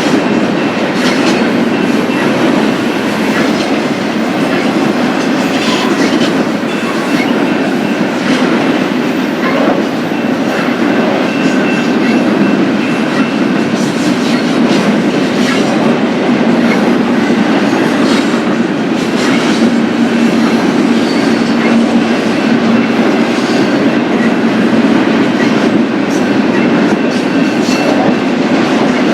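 BNSF freight train cars rolling past, a loud steady rumble with rapid clicking of wheels over rail joints and a faint thin wheel squeal now and then.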